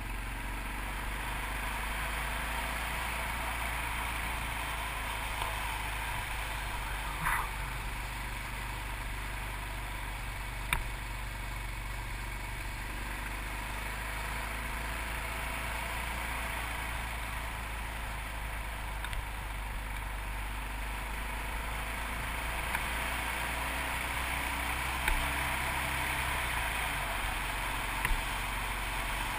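Yamaha TT600RE's single-cylinder four-stroke engine running steadily as the motorcycle rides along, with wind and road noise and a few brief knocks.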